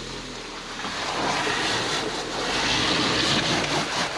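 Suzuki Jimny JB74's 1.5-litre four-cylinder engine pulling under load as the 4x4 crawls up a rocky track, with its tyres crunching over loose rocks; the noise grows louder from about a second in.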